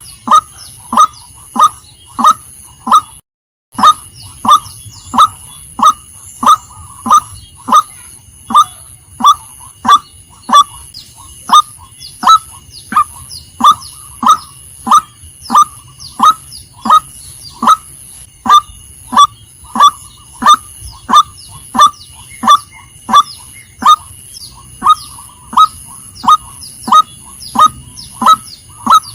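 Female white-breasted waterhen giving its monotonous, evenly repeated 'kwak' call, short downward-sliding notes about one and a half to two a second. The calls break off for half a second about three seconds in.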